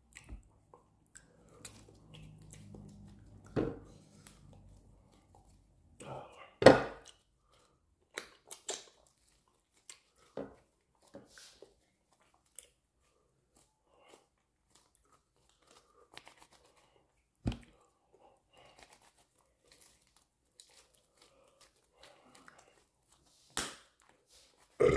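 Close-up eating sounds of amala swallow and soup eaten by hand: chewing with wet mouth clicks and lip smacks, and a few louder smacks spread through the quiet stretches.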